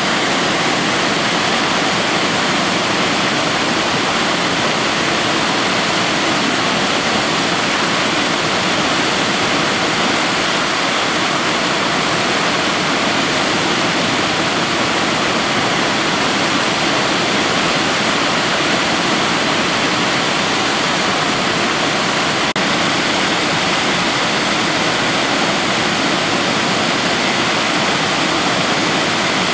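A waterfall's steady rush of falling water, a dense, even noise with no breaks.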